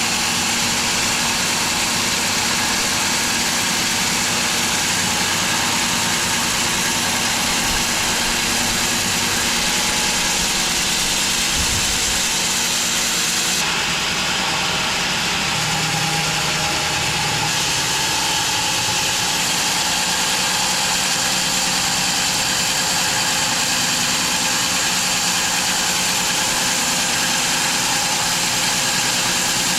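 Home-built wide bandsaw mill running steadily as a steady loud drone, its blade sawing through an English walnut log. For a few seconds near the middle the high hiss dulls.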